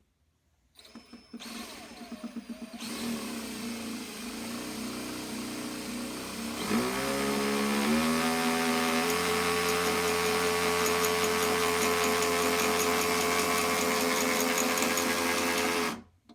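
Electric power drill boring a hole into a Jeep Wrangler's body. It starts in short stuttering bursts, then runs steadily, speeds up to a higher pitch about seven seconds in, and stops suddenly near the end.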